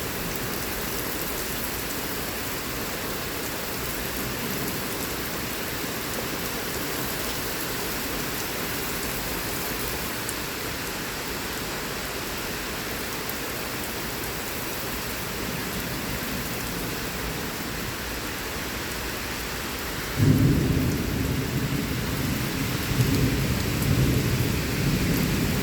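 Heavy rain falling steadily in a thunderstorm. About twenty seconds in, a sudden loud clap of thunder breaks in and keeps rumbling, swelling again a few times.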